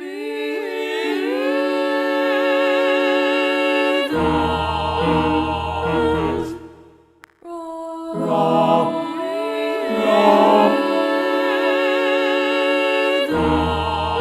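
An a cappella choir sings sustained chords. Higher voices enter one after another, gliding up into the chord, and low voices join about four seconds in. After a brief break about halfway through, the same build of entries starts again.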